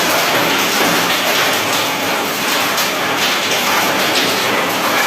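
Heavy rain and wind in a storm, a loud steady rushing noise with no let-up.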